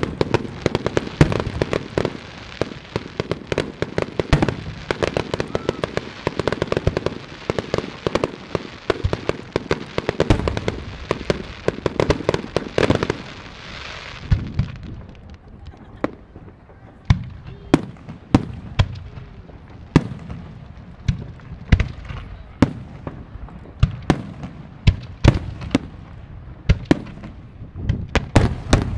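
Fireworks finale: a dense barrage of aerial shell bursts over continuous crackling for about the first half, thinning out about halfway through to separate sharp bangs, several a second at times.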